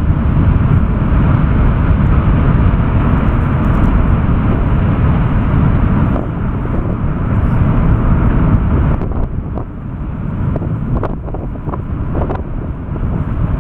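Roar of the Fagradalsfjall volcano's erupting vent throwing up lava fountains, a loud steady deep rumble. It eases somewhat about nine seconds in, and several sharp cracks stand out after that.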